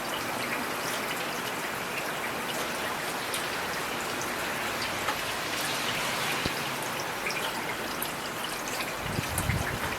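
Steady rain with individual drops tapping sharply now and then. A low rumble swells briefly near the end.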